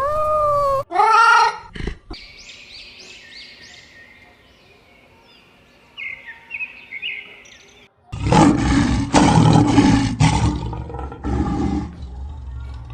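Animal calls. There are two short wailing calls at the start, then faint high bird chirps. About eight seconds in comes a loud, rough roar from a large wild animal, repeated for about four seconds.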